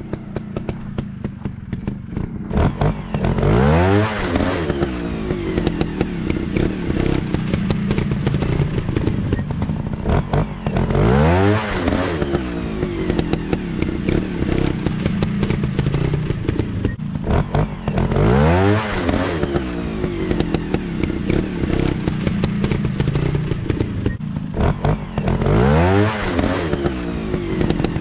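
Motocross dirt bike engines revving, with four rising surges of pitch about seven seconds apart over a steady engine rumble, mixed with clattering and knocks.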